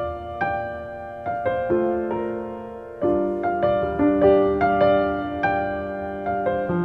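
Soft background piano music, slow notes struck one after another and left to ring.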